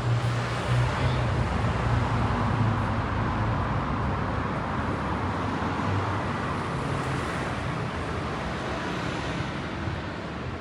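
City street traffic: a motor vehicle's engine hum and tyre noise pass close by, loudest in the first half and easing off toward the end.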